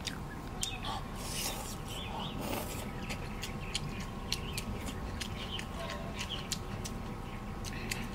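A person chewing tender beef head meat, with many small wet mouth clicks and lip smacks and a couple of short breaths.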